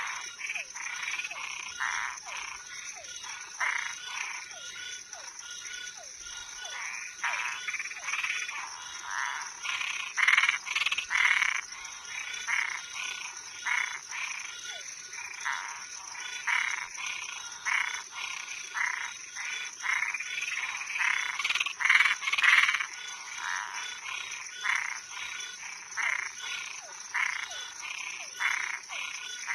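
A night chorus of frogs and tree frogs: many short calls repeated and overlapping, with a steady high insect trill underneath.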